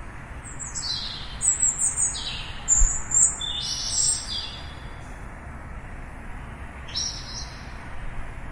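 Small birds chirping: a quick run of short, high, downward-sliding chirps in the first four seconds, then another call near the end, over steady low background noise.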